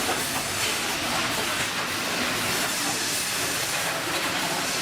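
Sawmill headrig machinery, the log carriage and band saw, running with a steady hissing noise.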